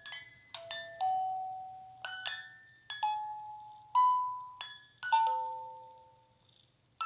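A slow melody of bell-like chime notes, each struck sharply and then ringing out and fading, sometimes two notes close together. Near the end the notes die away into a brief lull before the next note sounds.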